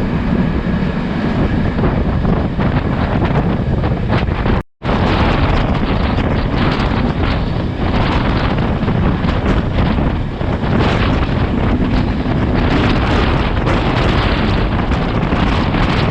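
Class S13 diesel multiple unit running at speed, a steady loud rush of train running noise with wind buffeting the camera microphone. The sound cuts out for a split second about five seconds in, then resumes the same.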